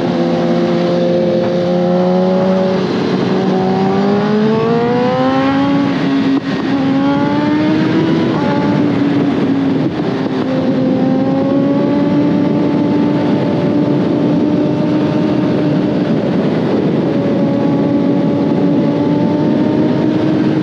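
Suzuki GSX-R1000R inline-four engine under way at speed. The revs climb, drop with an upshift about six seconds in, climb again, then settle into a steady cruise from about ten seconds in, over a constant rush of wind.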